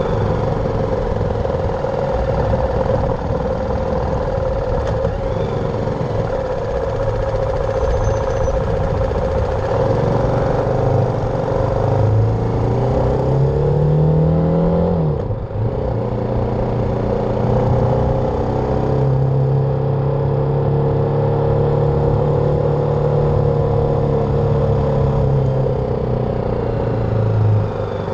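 BMW G310R's single-cylinder engine under way with wind rush. The engine pitch climbs for a few seconds, breaks sharply at a gear change about halfway through, then holds steady at cruising speed until it drops off near the end.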